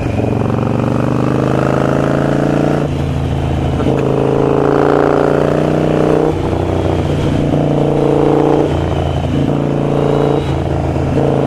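Harley-Davidson Sportster Iron 883 V-twin running through a Vance & Hines exhaust while being ridden. The throttle is rolled on and off about five times, so the note climbs and falls back every couple of seconds.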